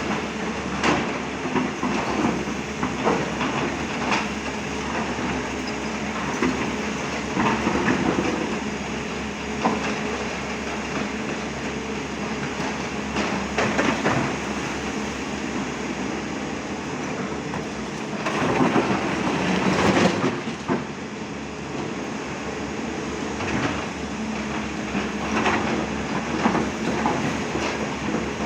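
Excavator's diesel engine running steadily, with frequent metal clanks and knocks, and a louder stretch about two-thirds of the way through.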